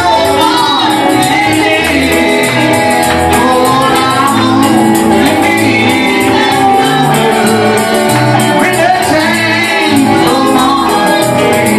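Live gospel music: singing over a band with a bass line and a fast, steady beat of high percussion.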